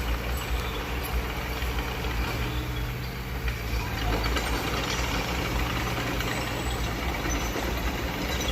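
Heavy diesel earthmoving machine engine running steadily, most of its sound low-pitched.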